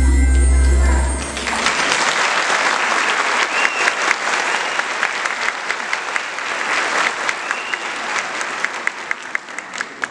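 A sustained low music chord ends about a second in, and a theatre audience starts applauding, with a few voices calling out over the clapping.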